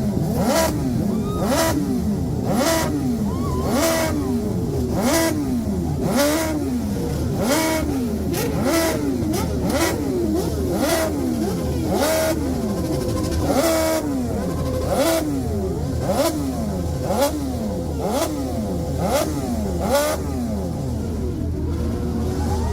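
A long line of motorcycles riding past one after another, about one a second, each engine note falling in pitch as it goes by.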